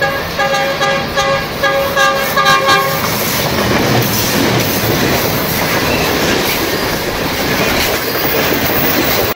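A train horn sounds as one held note for about three seconds. After it comes the steady rumble and clatter of a train running over a steel truss bridge, which cuts off suddenly at the end.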